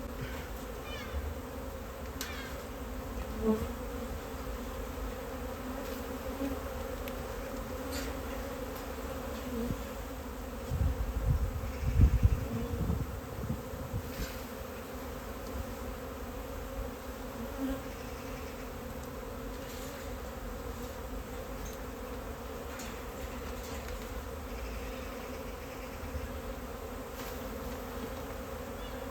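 Honey bee swarm buzzing, a steady dense hum of many bees. About eleven to thirteen seconds in, a few low thuds and rumbles rise over it.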